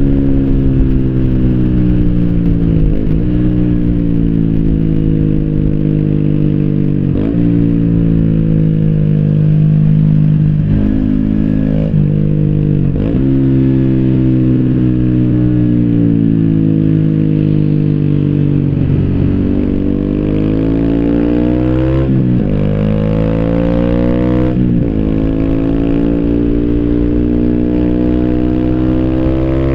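2014 Yamaha YZF-R125's single-cylinder four-stroke engine through an Arrow slip-on exhaust with the dB-killer fitted, pulling up through the gears. The pitch climbs steadily and drops sharply at each gear change, several times over. It is heard muffled from a phone in the rider's backpack.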